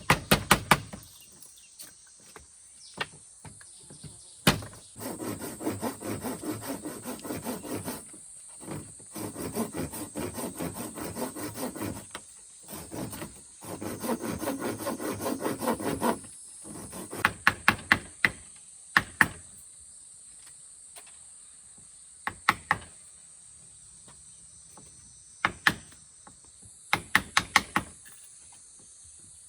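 Hand tool working wood: three spells of fast rasping strokes, like sawing, then groups of sharp wooden knocks. Insects chirr steadily in the background.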